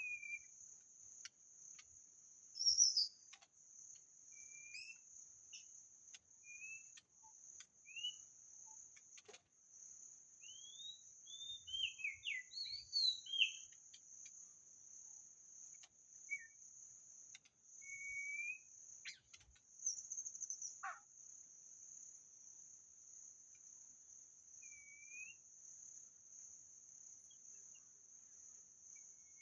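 White-rumped shama giving short, scattered whistled notes and slurred glides, with a brief busier run of varied phrases about halfway through. A steady high insect drone runs underneath.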